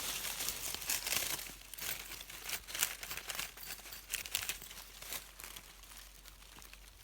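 Dry leaf litter and forest soil rustling and scraping in irregular bursts, from hand-digging out a wild deodeok root; busier in the first half, thinning out towards the end.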